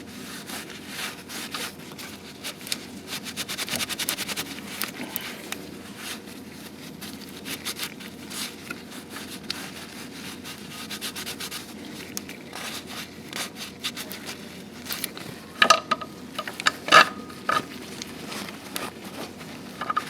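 Hand tools working on engine parts: a long run of rapid scraping and rubbing, then a few sharp metal clinks with a short ring near the end.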